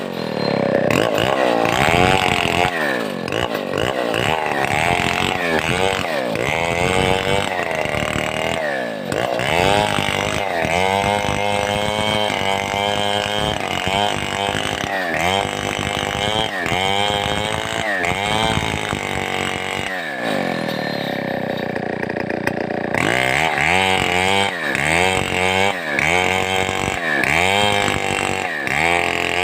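Large two-stroke chainsaw with its revs rising and falling in a steady rhythm, about once a second. About twenty seconds in, the revs sink away for a couple of seconds before the rising and falling starts again.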